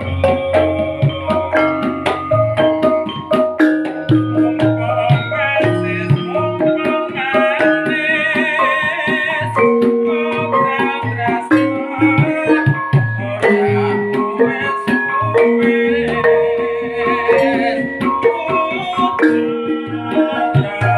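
Javanese ensemble music in rehearsal: a hand drum plays a quick pattern under ringing notes struck on mallet-played metal keys, with a high wavering melody line rising over it twice.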